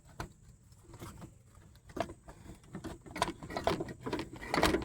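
A few irregular clinks and knocks of metal parts being handled on an old Toro lawn tractor engine as a part is worked loose and lifted off.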